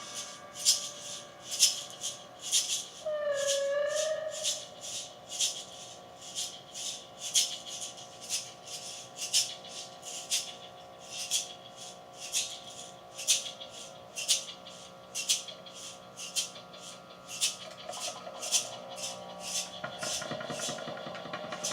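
Improvised experimental noise music: rhythmic shaker-like scraping strokes about two a second over sustained droning tones, with a short wavering tone about three seconds in and a buzzier tone swelling in near the end.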